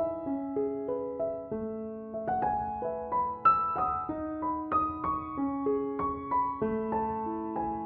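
Slow, gentle piano background music, single notes and chords sounding one after another.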